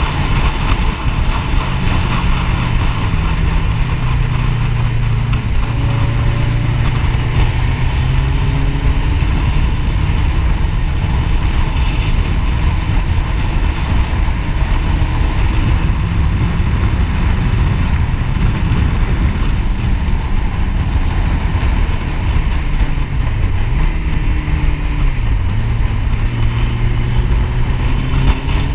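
Sport-touring motorcycle engine running steadily at road speed, heard from the rider's seat under a constant rush of wind noise. The engine note dips briefly and comes back about four-fifths of the way through, then starts to rise near the end.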